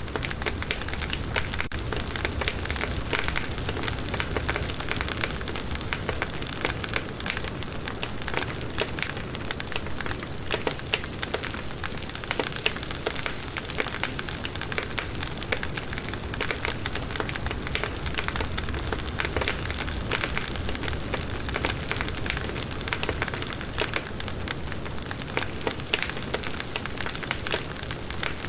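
Firewood burning in a campfire, crackling and popping continuously, with many small sharp snaps over a soft steady rush and a low rumble of the flames.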